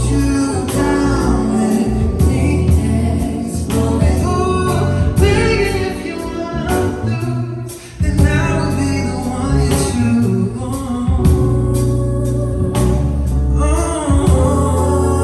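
A live song: a singer's voice over a band with a strong bass line and a steady beat. The music breaks off for a moment about eight seconds in, then comes straight back in.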